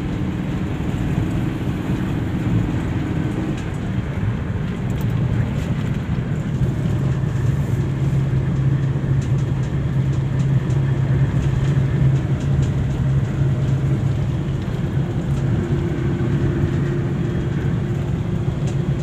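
Motor vehicle on the move: a steady engine drone with road noise, its engine note holding low and even from about seven seconds in.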